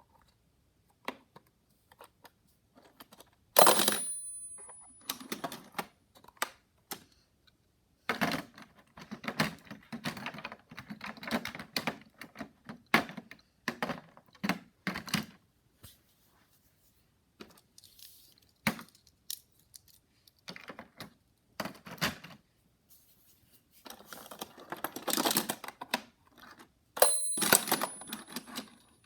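Hot Wheels die-cast toy cars being handled and played with: scattered clicks and clatter, with stretches of rolling. Twice, about four seconds in and near the end, a sharp metallic clink that rings briefly.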